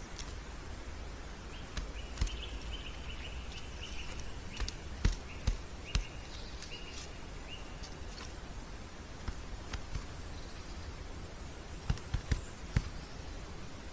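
Outdoor nest-camera ambience: a bird calls in a quick run of short high notes for a few seconds, among scattered sharp knocks and clicks, over a steady low rumble.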